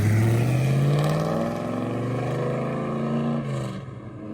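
Car engine accelerating: its pitch rises over the first second or so, holds steady, then falls away as the throttle comes off near the end.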